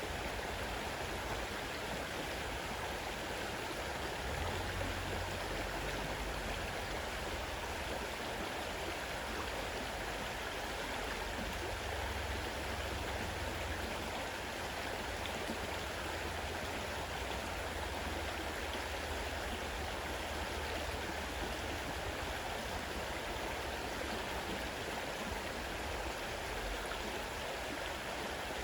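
Fast-running river water rushing steadily and evenly.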